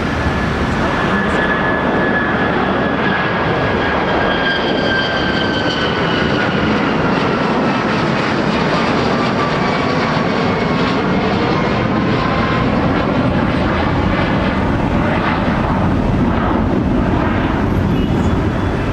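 Boeing 737 MAX 8's CFM LEAP-1B turbofan engines at takeoff power: a loud, steady jet roar with a high whine that slowly falls in pitch over the first dozen seconds.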